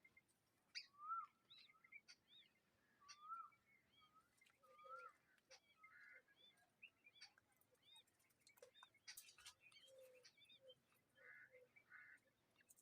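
Faint bird chirps: many short calls that rise and fall in pitch, repeated in quick succession, with scattered clicks and a brief scratchy noise about nine seconds in.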